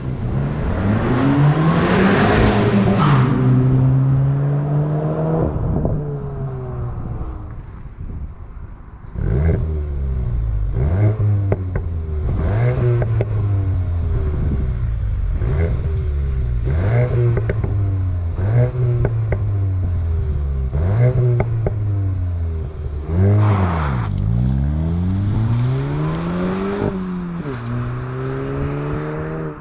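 Volkswagen Golf GTI's 2.0 TSI turbocharged four-cylinder petrol engine revving. First comes one long rise and fall with a rush of hiss near the top. From about nine seconds in it revs in a rapid series of short throttle blips, each a quick rise and fall of pitch, about one every one to two seconds.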